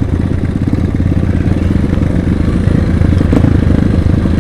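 Small trail motorcycle engine running steadily at low revs, with no clear revving up or down.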